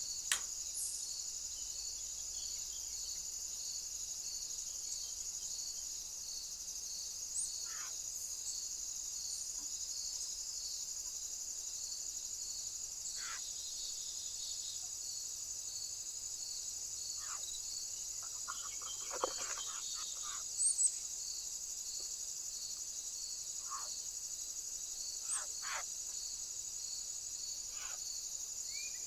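Insects trilling in a steady high drone with an even pulse about twice a second. A few soft knocks and short high chirps come and go, the loudest cluster a little past the middle.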